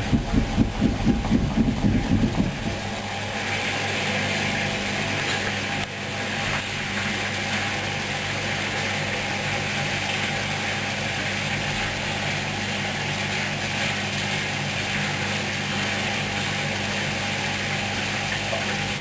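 Hoover washing machine running: a rhythmic churning for the first two or three seconds, then a steady motor hum with rushing water, which stops abruptly near the end.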